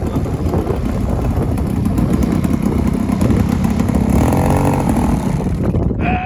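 Model airplane engine running, mixed with wind buffeting the microphone; the sound cuts off suddenly near the end.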